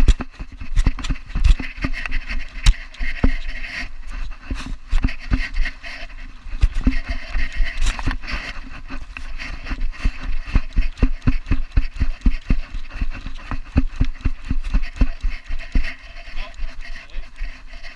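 Camera strapped to a running Belgian Malinois, jolting with each stride: a fast, regular run of thumps, several a second, as the dog gallops.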